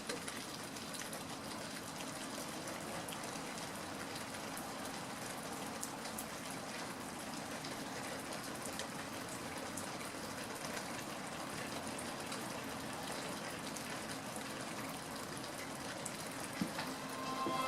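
Steady rain falling, a continuous even patter with fine drop ticks.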